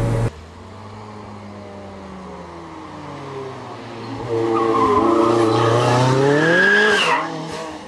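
Kimera EVO37's turbocharged and supercharged four-cylinder engine. The revs first fall away; about four seconds in it accelerates hard, the engine pitch rising steadily, then drops off and fades near the end.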